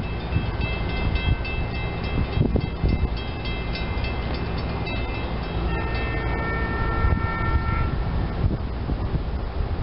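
Electric commuter train heard out of sight: a steady low rumble with high steady tones over it, and a cluster of steady tones sounding for about two seconds past the middle.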